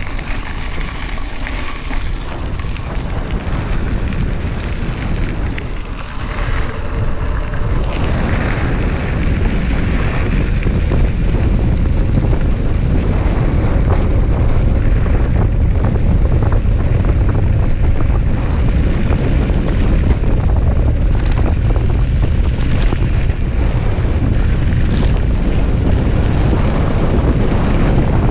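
Wind rushing over the camera microphone on a fast bicycle descent, louder after about eight seconds as speed builds, with many short clicks and knocks from the bike over the rough road.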